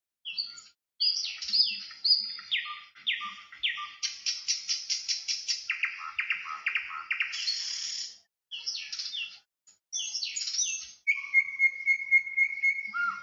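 Songbirds chirping and calling: a string of quick, high, downward-sweeping chirps, a fast rapid-fire trill in the middle, and a held high whistle pulsing rapidly near the end.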